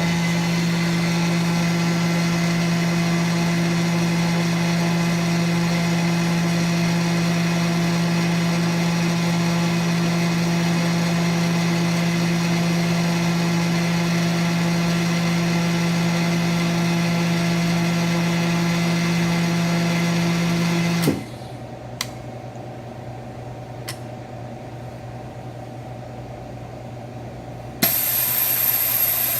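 Koch UV250 chamber vacuum packer's freshly rebuilt Busch rotary-vane vacuum pump running steadily as it pulls the chamber down. After about twenty seconds it cuts off with a click, leaving a quieter lower hum and a couple of clicks, and near the end air hisses back in as the chamber vents.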